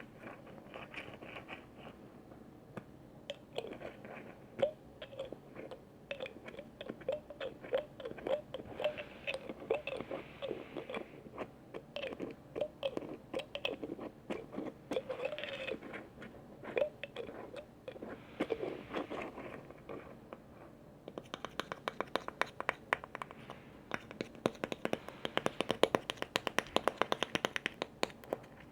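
Close-up ASMR handling of container lids: irregular clicks, scratches and short knocks. From about two-thirds of the way in, a long run of rapid, crisp tapping takes over.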